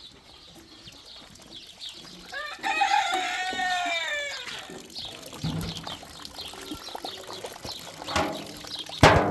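A rooster crowing once: a single call of about two seconds that rises and then falls in pitch. A sharp knock follows near the end.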